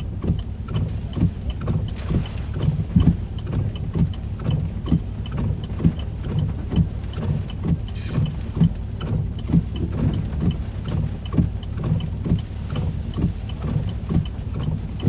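Hurricane-force wind and rain buffeting a stopped car, heard from inside the cabin as a loud, constant low rumble, with a steady ticking about three times a second.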